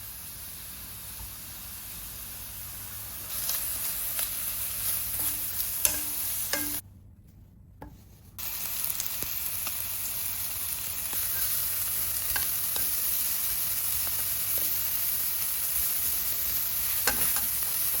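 Food sizzling and spitting in a frying pan, a steady hiss with a few light clicks. It drops away for about a second and a half just before the middle, then comes back a little louder.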